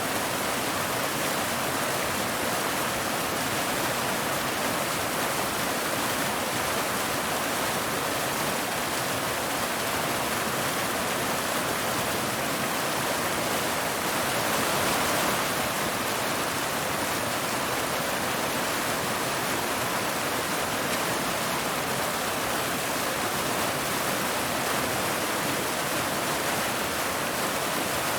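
Waterfall: water pouring steadily over rocks in an even, hissing rush, swelling slightly about halfway through.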